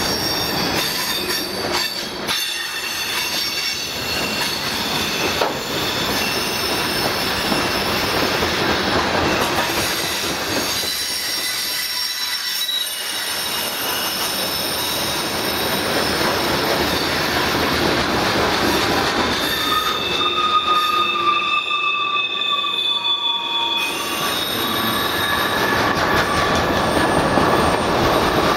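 Freight train cars (boxcars, covered hoppers and tank cars) rolling past on a curve, making a steady wheel-on-rail noise. High-pitched wheel squeal tones come and go, strongest about two-thirds of the way through.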